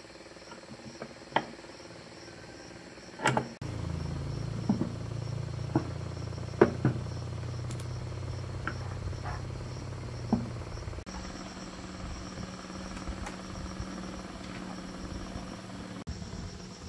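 A few sharp metal clicks and knocks, then, about three and a half seconds in, a small diesel engine starts running steadily; at about eleven seconds its sound changes to a single steadier hum.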